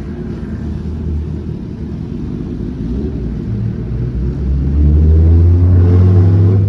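A road vehicle's engine running close by with a low rumble, growing louder about five seconds in, with its pitch rising briefly near the end as it accelerates.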